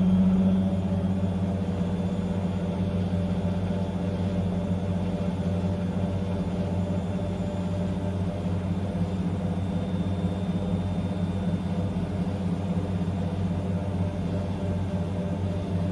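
Blomberg WA391 washing machine spinning at high speed: a steady motor hum and drum rumble with a thin whine above it, holding an even speed after a brief rise just at the start.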